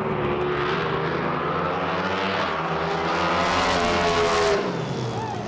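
Top alcohol hydro drag boat's race engine running hard at full throttle, its pitch climbing over a couple of seconds, then cutting off abruptly about four and a half seconds in.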